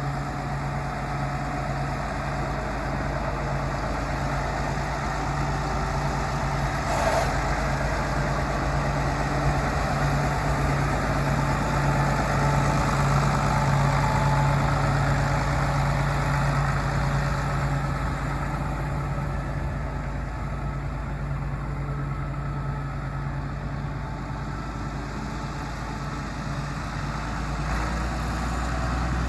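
Case 970 Agri King tractor's engine running steadily at idle, with a brief sharp click about seven seconds in.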